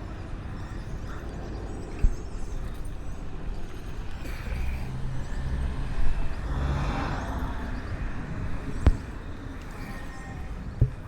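Low rumbling movement noise on a body-worn action camera during a horse ride, with three sharp knocks: one about two seconds in, one near nine seconds and one near the end.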